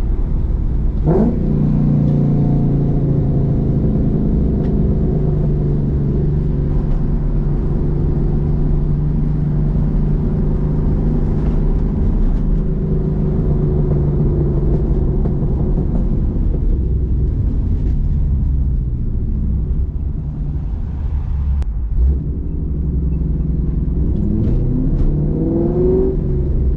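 Roush Mustang's engine and exhaust heard from inside the cabin while driving: a steady drone, with a quick rev about a second in. Near the end the pitch rises several times as the car accelerates.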